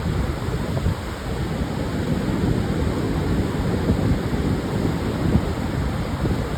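Pacific surf breaking and washing on a sandy beach, a steady low rumble of waves with wind buffeting the microphone.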